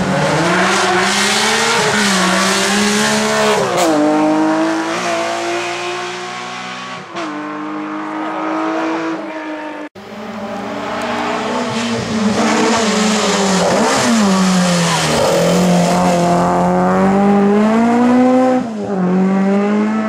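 Race car engine at full throttle on a hillclimb, its pitch climbing and dropping again and again as it revs through the gears and brakes for corners. About halfway through the sound breaks off abruptly and picks up again.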